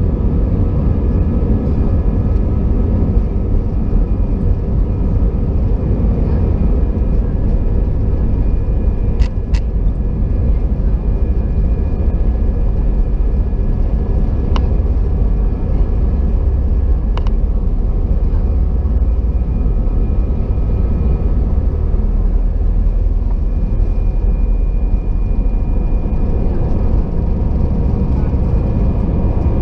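Airbus A320 cabin noise: a steady, loud jet engine drone with faint whining tones, heard from inside the cabin, with a few brief clicks about a third and a half of the way in.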